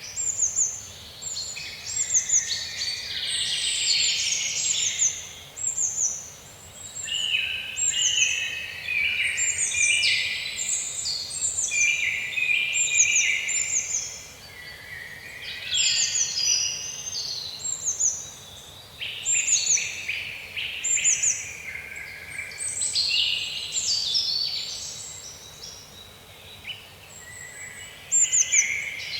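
Several songbirds singing at once: a busy chorus of overlapping chirps, trills and short falling whistles, over a faint low background rumble.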